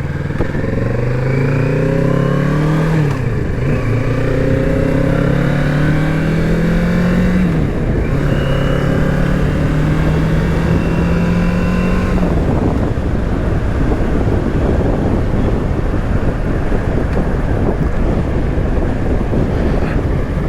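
Kawasaki Z650's 649 cc parallel-twin engine pulling up through the gears under acceleration, its pitch rising and dropping at two upshifts. It settles to a steady cruise, and from about halfway through, wind rush covers the engine.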